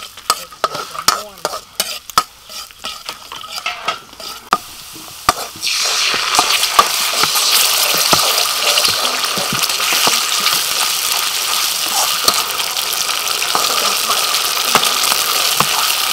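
Metal ladle scraping and clinking against a steel wok while minced garlic fries in oil. About six seconds in, sauce is poured into the hot wok and a loud, steady sizzle starts suddenly, with the ladle still scraping through it.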